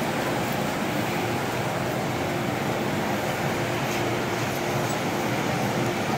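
MTR M-train car standing at a platform with its doors open: a steady hum from the train's air conditioning and equipment, mixed with the station's background noise.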